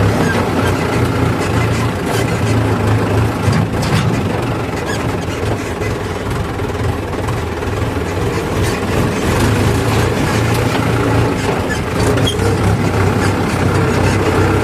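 A heavy diesel engine running steadily at a constant speed, a low drone.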